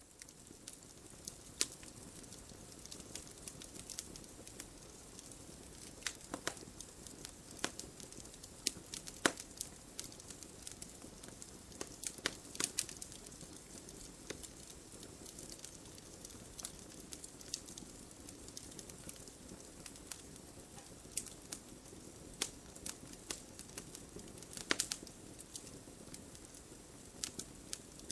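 Wood campfire crackling, with irregular sharp pops and snaps over a soft steady hiss of burning.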